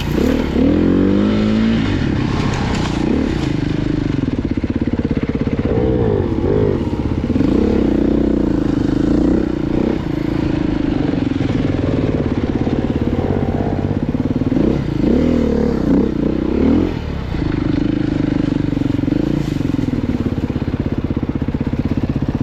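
Off-road motorcycle engine being ridden, its revs rising and falling again and again in short throttle bursts, with steadier stretches between them.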